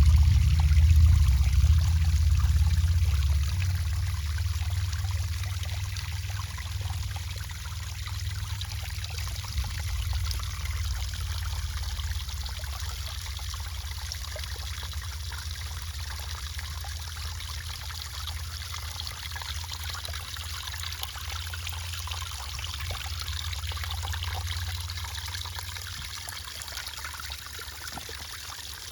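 Water trickling and splashing steadily down a small concrete backyard waterfall and stream. A low rumble is loudest in the first few seconds and then fades.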